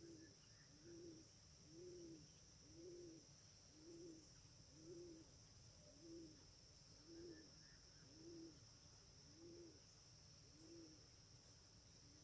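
Faint, low hooting calls of a bird, one about every second, each note rising and falling slightly in pitch, over a thin steady high hiss.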